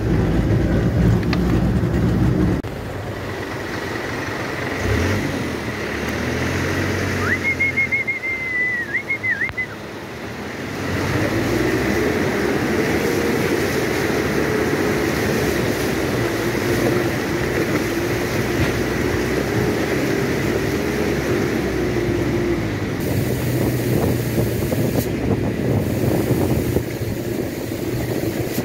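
Truck engine running under load as it drives a rough, slippery dirt road, with a steady low drone and road rattle. A brief high warbling tone sounds about seven seconds in, and from about eleven seconds a wavering engine whine rides over the drone for some ten seconds.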